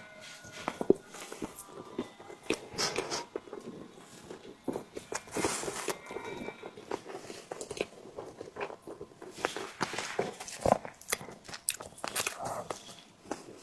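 Close-miked biting and chewing of a tiger skin dessert, with wet mouth clicks and smacks coming irregularly several times a second.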